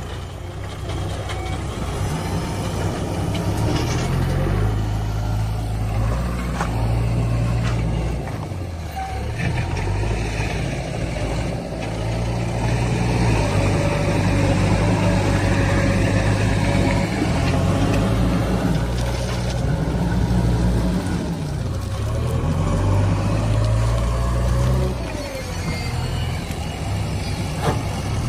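Heavy diesel engine working, revving up and easing back several times as the load comes on and off.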